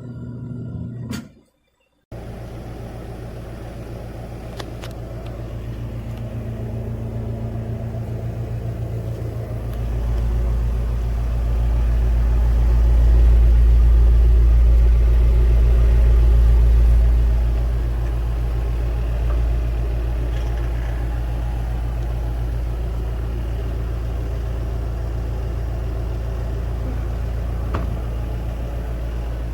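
Twin-tub portable washing machine's motor running with a steady low hum, cutting in after a brief gap about two seconds in and swelling louder for several seconds midway.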